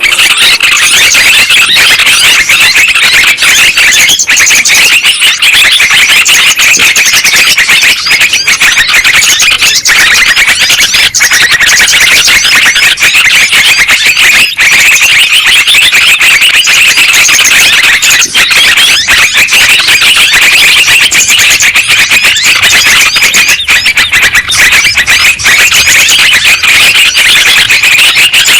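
Yellow-vented bulbuls (trucukan) calling, many short overlapping chirps in a loud, unbroken chatter, as in a bird-lure recording.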